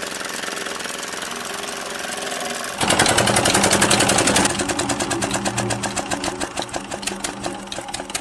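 Toy chaff cutter driven by a belt from a miniature model engine, running with a steady hum. About three seconds in, a loud rapid, even clatter starts as the cutter spins, then gradually fades.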